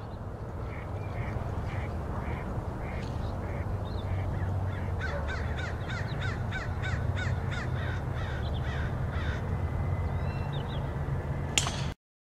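A bird calling in a repeated series of notes, about two a second at first, then a faster run of about three a second in the middle, over a steady low rumble. The sound cuts off suddenly near the end.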